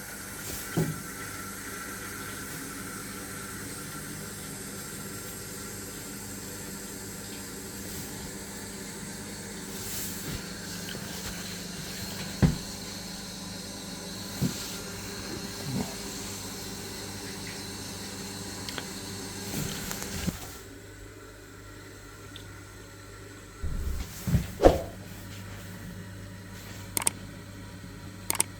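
Water running from a tap with a steady hiss, stopping about two-thirds of the way through, over a faint steady low hum. Several sharp knocks and clicks are scattered through it, the loudest near the end.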